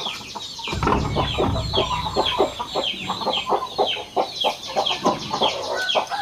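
Chickens clucking, with a steady run of short, falling high-pitched calls repeating several times a second. A low rumble of handling or rustling noise lies under them in the first couple of seconds.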